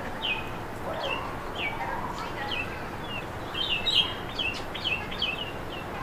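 Small birds chirping: a run of short, quick chirps, each dropping in pitch, coming thicker and louder about halfway through.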